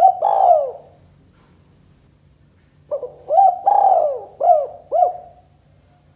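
Spotted dove cooing: a short phrase right at the start, then after about two seconds' pause a longer phrase of about five rising-and-falling coos.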